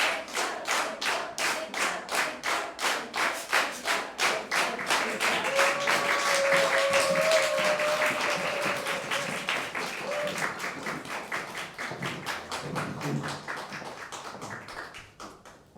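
Audience clapping together in a steady rhythm, about three claps a second, calling for an encore; a long high note sounds over it about halfway through, and the clapping thins out and fades near the end.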